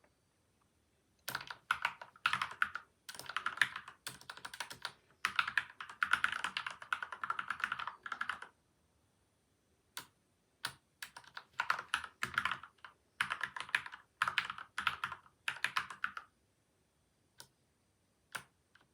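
Typing on a PCL87 mechanical keyboard with lubed linear switches (Gateron milky white, Outemu yellow), modded with tape and foam. Fast runs of keystrokes stop and start, with a pause of a second or two in the middle and a few single key presses near the end.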